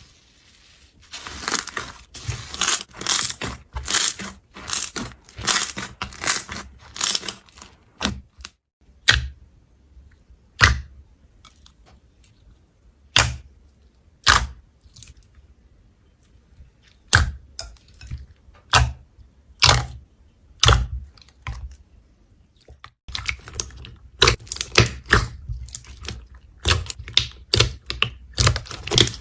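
Slime being pressed and worked by hand, making sharp crackling clicks and pops. Dense runs of clicks in the first third and again near the end, with single separate pops about a second apart in between.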